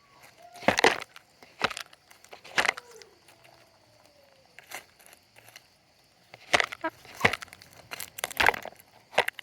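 Chickens pecking at food: sharp, irregular beak strikes, about eight of them, some in quick pairs, with faint soft chicken calls between them.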